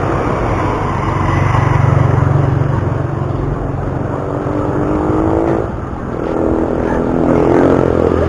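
Motor vehicle engines in road traffic, with one engine rising in pitch twice as it accelerates.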